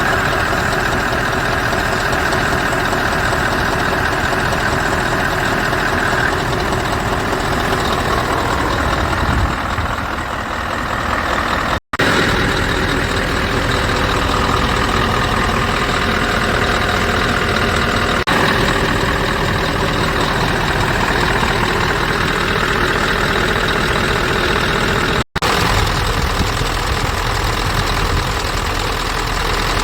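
Scania R500 truck's V8 diesel engine running steadily. The sound breaks off for an instant twice.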